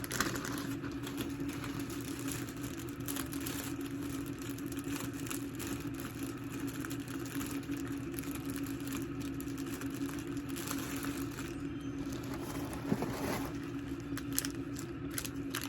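Plastic packaging crinkling and clicking as small items are unwrapped and handled, in short irregular bursts over a steady low hum.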